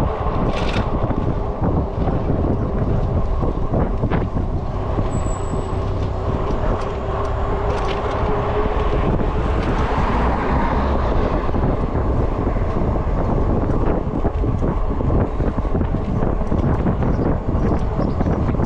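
Wind buffeting the microphone over tyre and road noise from an e-bike riding along a city street, with a faint steady hum in the first several seconds.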